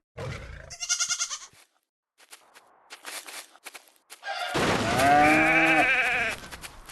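One long, quavering bleat from a goat or sheep, lasting nearly two seconds, about two-thirds of the way in. Before it comes a short rapid pulsing sound and a few scattered clicks.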